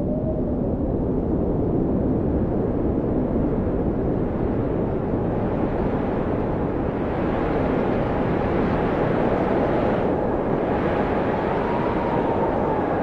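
Blizzard wind blowing steadily, a deep rushing noise with a faint howling whistle that rises and falls near the start and again near the end.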